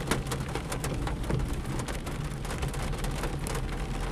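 Heavy rain falling on a car's roof and windscreen, heard from inside the cabin as a steady hiss full of separate drop hits, over the low hum of the car running.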